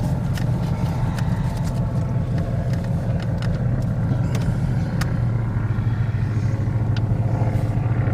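Steady low rumble of a car's engine and tyres, heard from inside the cabin while creeping slowly along in traffic, with a few faint clicks.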